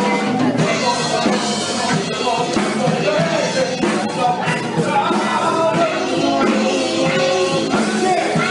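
Soul band playing live, with a voice singing over the band.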